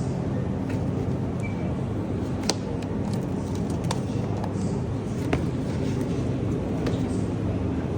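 Steady low rumble of grocery store background noise, with a few sharp clicks or rattles scattered a second or more apart.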